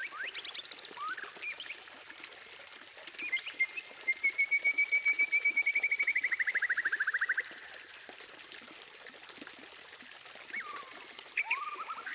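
White-rumped shama (murai batu) singing: a few whistled slurs, then a fast rattling trill of rapidly repeated notes held for about four seconds, with thin high notes repeating above it, and rising whistles again near the end.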